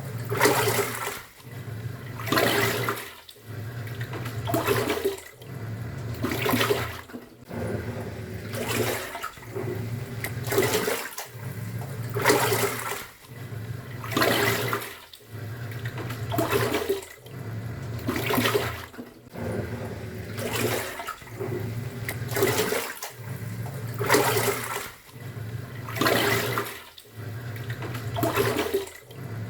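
Top-loading pulsator washing machine agitating: the motor drives the pulsator one way, pauses briefly and reverses, about once every two seconds, with a low motor hum and loud water sloshing in the drum at each stroke.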